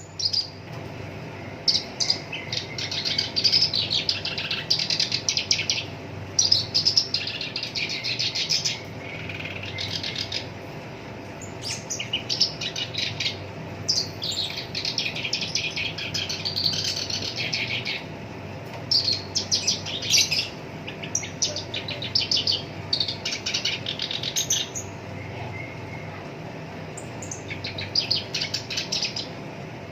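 Black-browed reed warbler singing: harsh, chattering phrases of a second or two with short breaks between, full of the rapid rolling notes that bird-keepers call 'rol tembak'. A faint steady hum runs underneath.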